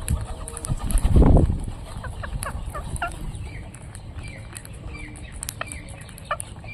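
Parrots chattering with many short squawks and chirps, thickest from about two seconds in. A loud, low rumbling thump about a second in is the loudest sound.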